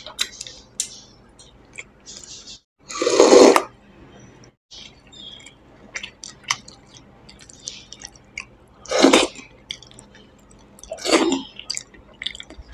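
Close-miked eating sounds of a man eating rice and fish with his fingers: chewing and lip-smacking with many small wet clicks, and three louder, longer wet mouth sounds spread through.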